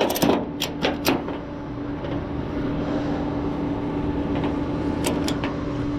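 Steady machine hum with one constant tone, with a few short clicks and knocks in the first second and again about five seconds in.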